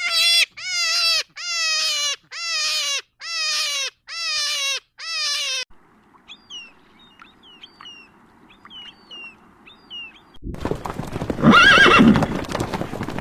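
A run of animal calls: seven short, loud calls, each falling in pitch, about two a second. Faint high chirps follow, then a loud, rough call near the end.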